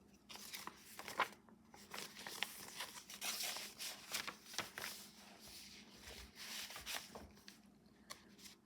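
Paper pages of a handmade junk journal being turned and handled: faint rustling with scattered light clicks.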